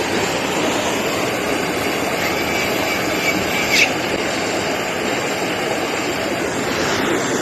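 Steady rushing hiss of a heating tool warming the shotgun barrel's muzzle end so cold blue will take. A faint short whistle and a light click come about four seconds in.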